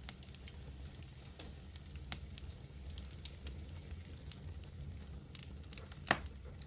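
Medium wood fire burning with a steady low roar and scattered crackles, and one louder pop about six seconds in.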